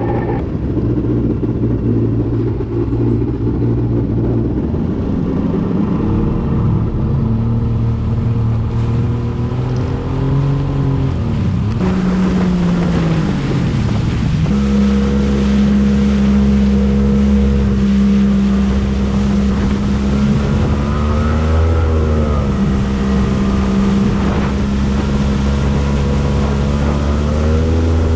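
Yamaha WaveVenture 1100's three-cylinder two-stroke engine running under way. The revs climb, fall off sharply about twelve seconds in, then hold steady at higher revs. There are brief dips in pitch about twenty-two seconds in and again near the end.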